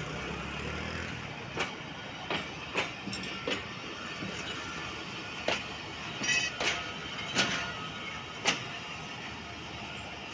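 Passenger train coaches rolling slowly past, a steady rumble with irregular sharp clacks and knocks from the wheels over the rail joints.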